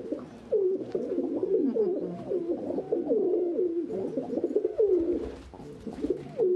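Several domestic pigeons cooing, their coos overlapping one another in a continuous chorus.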